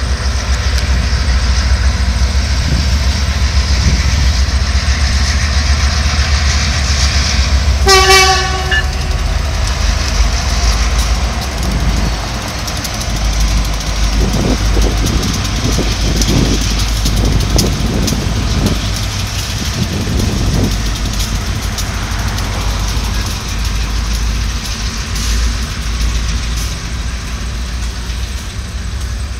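Canadian Pacific diesel freight train passing, with a steady low rumble throughout. About eight seconds in, the locomotive gives one short horn blast, a single harsh note that sounds like an old antique car horn. The locomotives then go by with a pulsing engine sound, followed by the rumble of the covered hopper cars rolling past.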